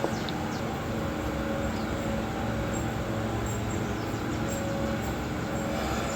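Steady mechanical hum with a few constant low tones and no change in pitch.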